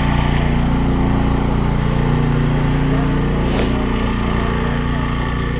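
Motorcycle engine idling steadily, a constant low, even note.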